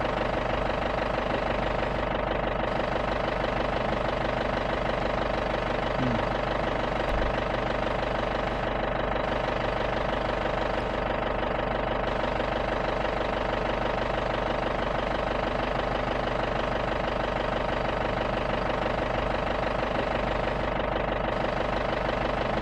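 Safari jeep's engine running steadily at idle, with an even, unchanging sound.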